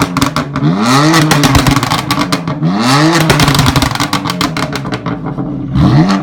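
BMW M3 with a Remus aftermarket exhaust revved three times while stationary, each blip climbing then falling, with a rapid crackle and popping from the exhaust as the revs drop.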